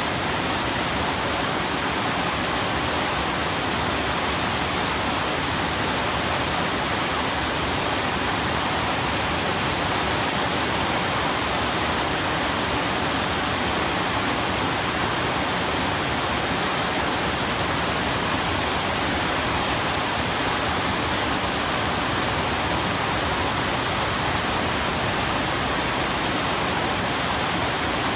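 Steady, even rain noise: a constant hiss with no single drops, thunder or changes standing out.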